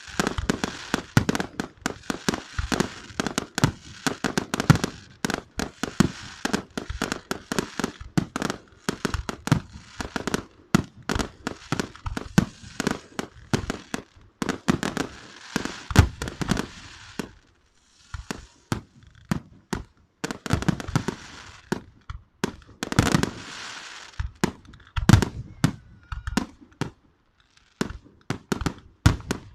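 Fireworks and firecrackers going off in rapid, overlapping bangs and crackles, with brief lulls about two-thirds of the way in and again near the end.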